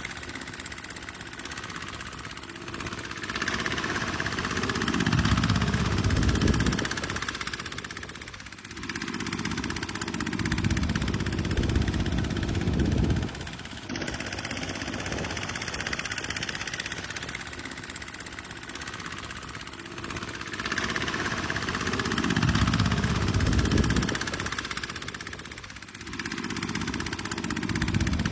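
Tractor diesel engine working under load, its sound swelling and easing every few seconds. There is a sudden break about halfway through, after which the same rise-and-fall pattern comes again.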